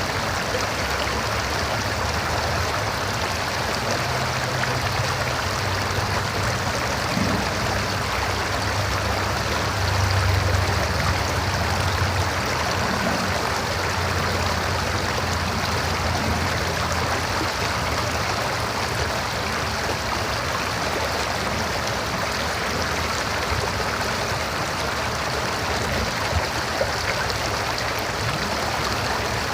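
River water running steadily over rocks, a continuous rushing with some low rumbling swells in the first half.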